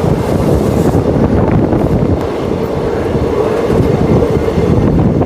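Passenger express train running, a loud, steady rumble and rattle of wheels on the rails.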